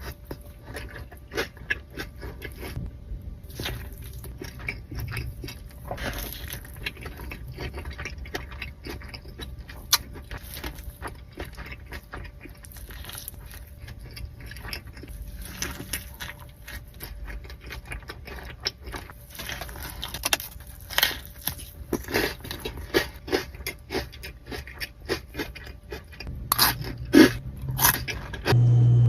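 Close-miked chewing and crunching of a burrito with Hot Cheetos, the chips crackling between the teeth in many short crunches, with a run of louder, steady chewing strokes near the end.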